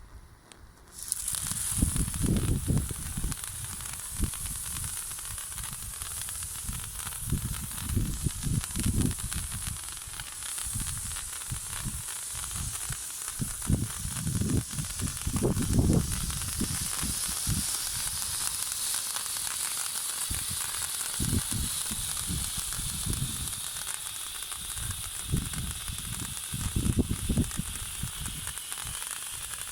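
Firework fountain burning, giving out a steady sizzling hiss that starts about a second in, with irregular low rumbling underneath.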